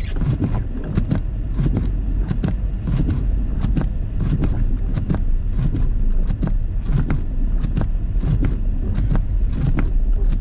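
Car driving slowly on a snow-covered road, heard from inside the cabin: a steady low rumble of engine and tyres, with short clicks or knocks repeating about once or twice a second.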